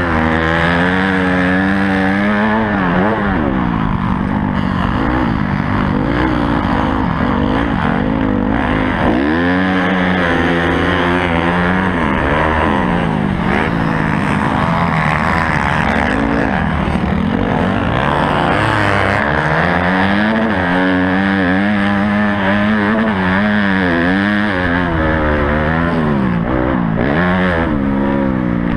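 Honda CRF250 four-stroke single-cylinder dirt bike engine heard close up from an on-board camera, revving up and down over and over as it is ridden hard, the pitch climbing and falling with throttle and gear changes.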